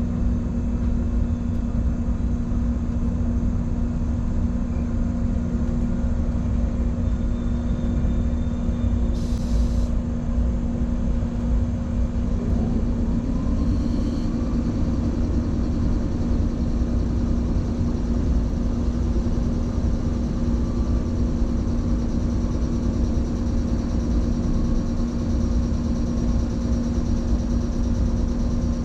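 An electric commuter train standing at a station, its on-board equipment humming steadily over a low rumble. A second hum joins about twelve seconds in, and two faint short high sounds come and go.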